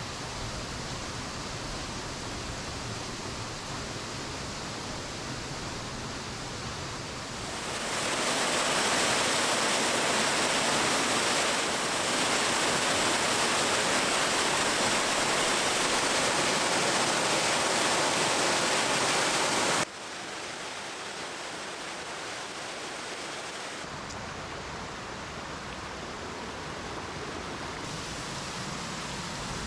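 Waterfall rushing in a steady roar. It grows louder and brighter about a quarter of the way in, then drops back suddenly about two-thirds of the way through.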